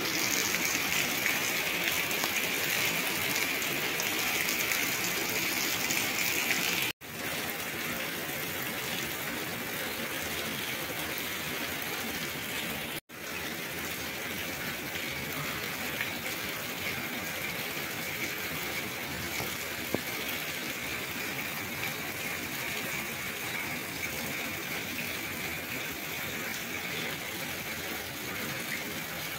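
Heavy rain falling steadily: an even hiss of rain and running water, cut off for an instant twice.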